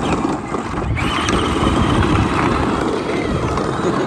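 Battery-powered ride-on toy tractor driving fast, with steady electric motor and gear noise and the rumble of its tyres over the ground.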